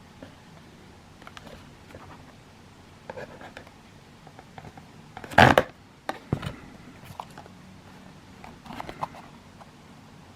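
Cardboard firework packaging and tubes being handled out of an opened selection box: light scratching and rustling, with one louder burst of rustling about five and a half seconds in and smaller ones later.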